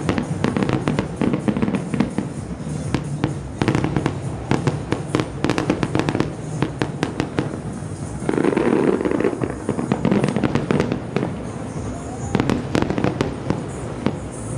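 Aerial fireworks shells bursting in quick, irregular bangs and crackles, with a louder, denser volley about eight seconds in.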